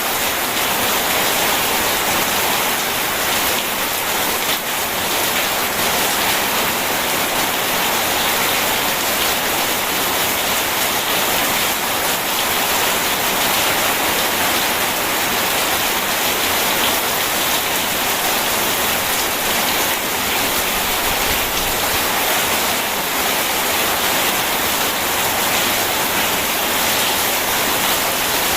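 Steady, heavy rain falling in an even, unbroken hiss.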